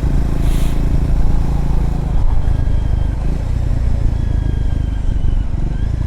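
Triumph Scrambler motorcycle running on a gravel road, its engine steady and low with road noise. About two seconds in, the engine note changes.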